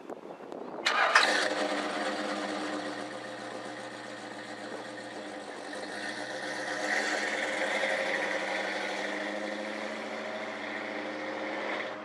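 1978 Chevy pickup's engine cranking and catching about a second in with a loud flare, starting right up, then settling into a steady idle that swells slightly midway.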